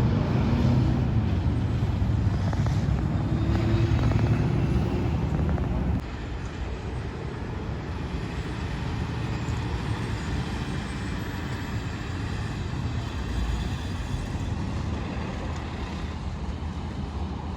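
Road traffic with a truck's engine running loudly for about six seconds. It drops abruptly to quieter, steady traffic noise.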